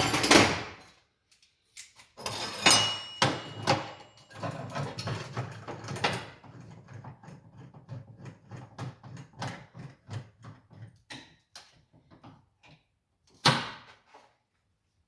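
Metal clanking on a workbench as a piece is lined up and clamped down: a heavy clank at the start, a run of loud ringing metal knocks a couple of seconds in, then a long series of light clicks and taps, and another clank near the end.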